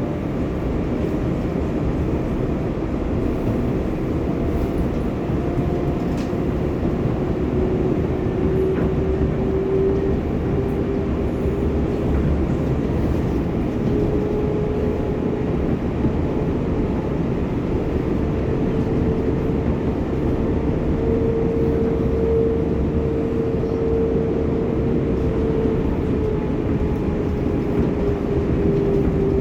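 R188 subway train on the 7 line running at speed: a steady rumble of wheels on rail, with the traction motors' whine climbing slowly in pitch, holding, then easing down near the end as the train starts to slow.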